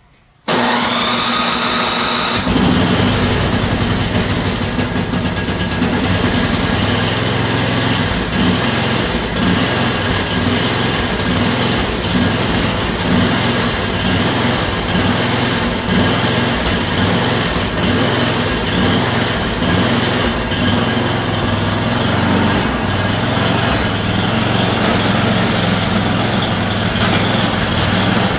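Yard Machines snowblower's small single-cylinder engine spun by its newly fitted electric starter with a rising whine, catching after about two seconds and then running steadily.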